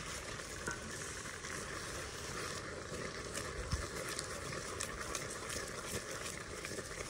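Food simmering and sizzling in a pot over an open wood fire, with scattered small crackles and one dull knock a little under four seconds in.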